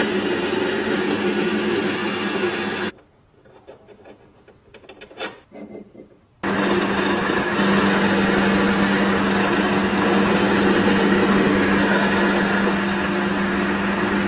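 Electric power tool abrading the rusty metal of an old hand-cranked grinder, a steady motor hum under a harsh grinding hiss. It stops about three seconds in, leaving a few faint clicks and knocks, and starts again about six seconds in.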